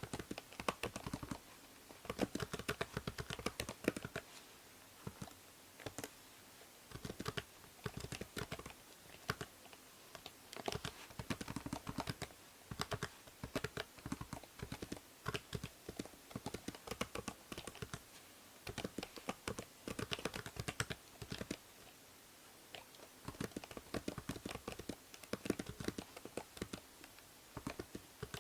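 Computer keyboard typing in quick runs of key clicks with short pauses between, over a steady faint hiss of microphone noise.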